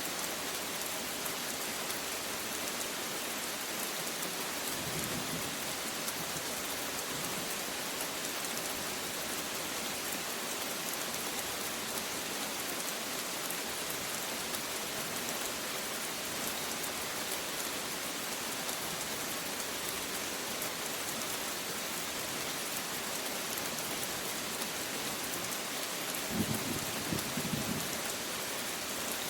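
Steady, heavy rain hissing and pattering on surfaces. Low rolls of thunder rumble under it: a faint one about five seconds in and a louder one near the end.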